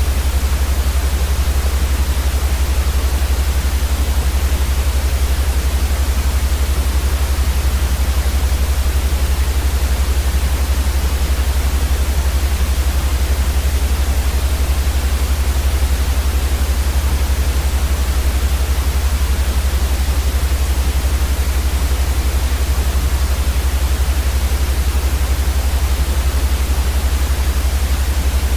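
Steady white noise for sleep: an even, unchanging hiss across the whole range, with a strong low rumble beneath it.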